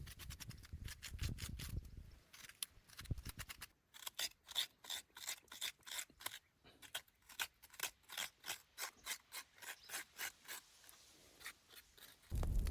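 A knife scraping in quick repeated strokes, about two a second. Softer rubbing and handling come before it.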